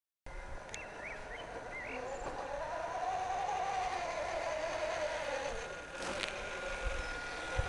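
Whine of a radio-controlled 1/6 scale model truck's electric drive, rising slowly in pitch and then falling back as the model speeds up and slows, with a click near the end. A few short chirps sound in the first two seconds.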